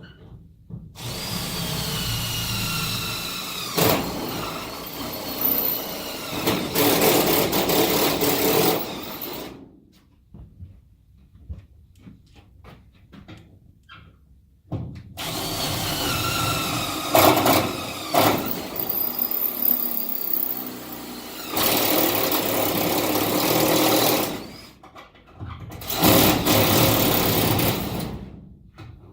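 Cordless drill running in three long stretches, the first and second each lasting about eight to nine seconds and the last a couple of seconds, with quiet pauses between; its whine sinks and rises as the bit is loaded while cutting the holes.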